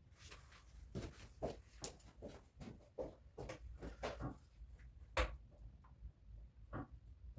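Irregular light knocks and clicks from hands-on handling work, a dozen or so spread unevenly, with the sharpest knock about five seconds in.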